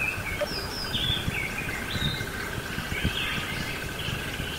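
Birds chirping in short, varied calls over a steady, fast pulsing trill, with a low rumble beneath: a rural outdoor ambience.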